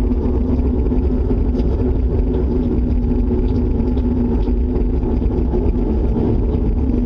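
Loud, steady low rumble with a droning hum held on one pitch, unbroken throughout: the kind of unexplained humming 'strange sound' these recordings capture.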